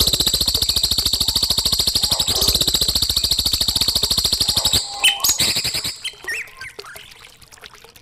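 A songbird's very fast rattling trill, played as masteran training song. It runs for almost five seconds and stops abruptly, then gives way to a few short whistled chirps that grow fainter.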